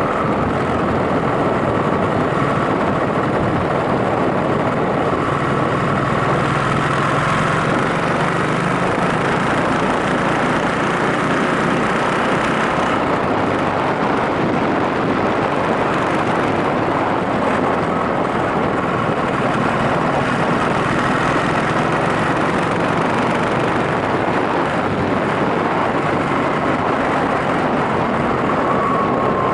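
Yamaha SRX400 single-cylinder motorcycle engine running steadily under way, mixed with a steady rush of wind and road noise.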